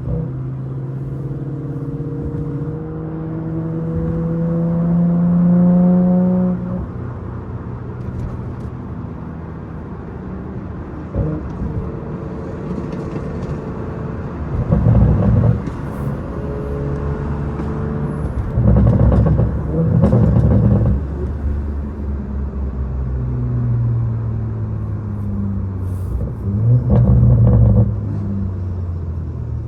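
BMW 540i's turbocharged B58 inline-six with a catless downpipe and straight-piped exhaust, pulling hard with its note rising steadily for about six seconds, then easing off. A second, shorter pull follows before the middle, with several short, louder bursts in the second half.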